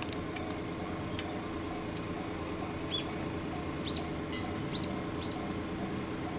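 A small bird giving four short chirps in the second half, over a steady low hum.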